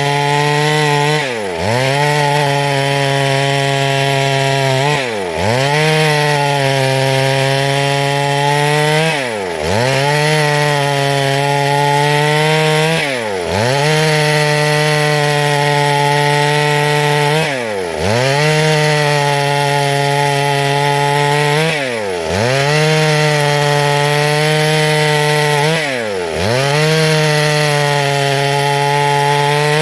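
Chainsaw running at high speed and cutting wood. Its engine pitch dips sharply and recovers about every four seconds.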